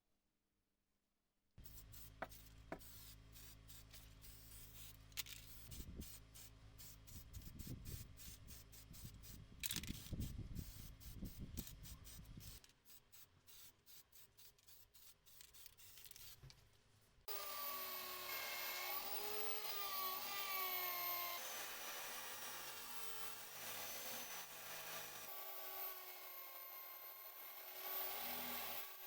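Workshop tool work on metal parts: fast, rapid rubbing or filing strokes over a low steady hum. Then, starting suddenly about 17 seconds in, a power tool runs with a wavering, shifting whine as it works under load.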